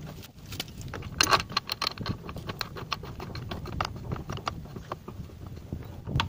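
Irregular metallic clicks and clinks of bolts and hand tools being handled while the rear brake caliper is refitted, the loudest cluster about a second in.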